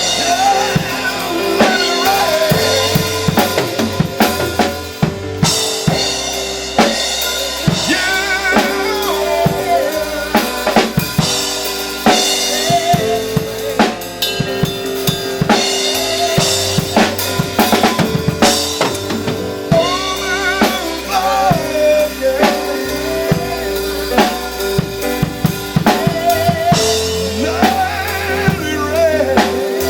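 Live drum kit played at a steady, busy groove, with snare, rimshot and bass drum hits throughout, over held chords from another instrument.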